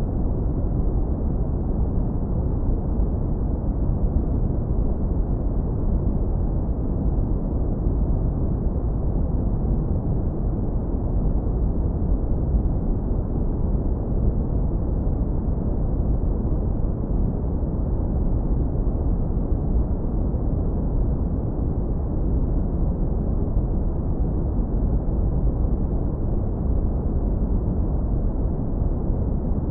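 Synthetic brown noise, heavily low-passed so that nearly all its energy sits in the deep bass: a steady, warm, deep rumble.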